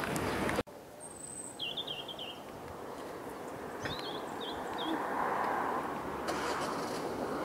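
Small birds chirping in short, quick warbling phrases over a steady background hiss, with an abrupt cut in the sound about half a second in.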